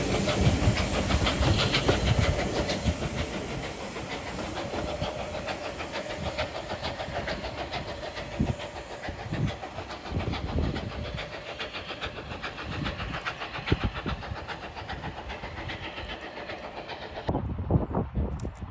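Steam-hauled train passing, with hissing steam and wheels knocking over rail joints, loudest at first and fading as it moves away. The sound changes abruptly near the end.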